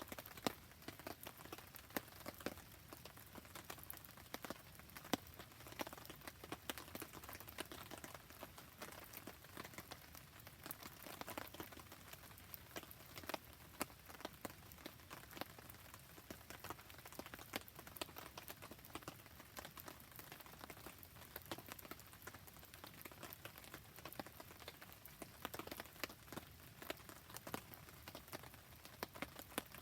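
Steady rain falling on a surface, dotted with many irregular sharp ticks and pops, together with a wood campfire burning.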